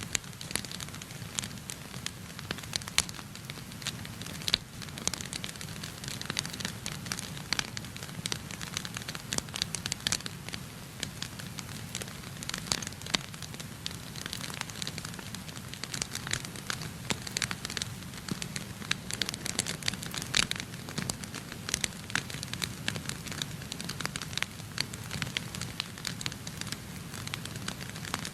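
Wood fire burning in a fireplace, with frequent irregular sharp crackles and pops over a steady low hiss.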